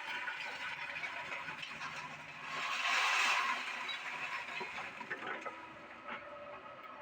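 Doosan excavator running as it shifts scrap iron, with a louder rushing swell about three seconds in and light metallic clinks and rattles.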